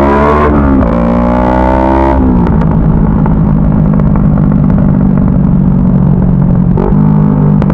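CFMoto 400NK motorcycle's parallel-twin engine revving up under throttle, with a brief dip about half a second in as it shifts gear. It climbs again, then the revs fall off about two seconds in as the throttle closes, and it runs steadily at lower revs, picking up slightly near the end.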